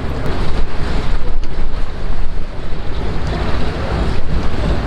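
De Havilland Beaver floatplane's Pratt & Whitney R-985 radial engine running, half buried under heavy wind buffeting on the microphone; the level rises and falls unevenly.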